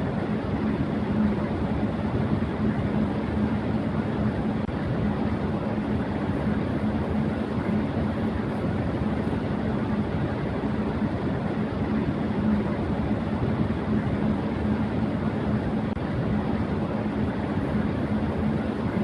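Electric fan running steadily at high speed: an even rush of moving air with a constant low hum from the motor.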